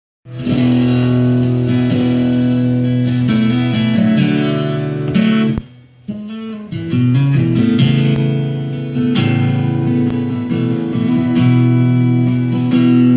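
Live country band playing the instrumental intro to a song, led by strummed acoustic guitar. About five and a half seconds in, the music drops out almost completely for about a second before picking up again.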